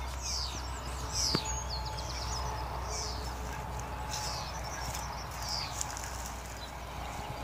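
Small birds chirping outdoors: short high calls that slide downward, repeated every half second to a second, over a steady low hum.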